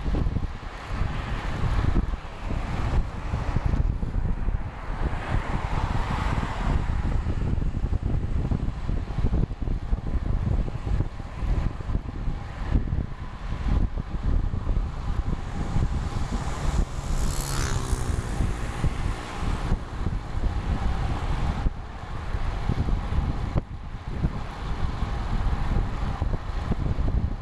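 Wind buffeting the microphone on a moving road bike, a steady low rumble. A motor vehicle passes about two-thirds of the way through, with a brief rising and falling tone.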